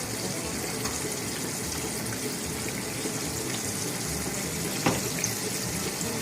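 Battered chicken pieces sizzling steadily in hot oil in a frying pan, with a single sharp clack about five seconds in.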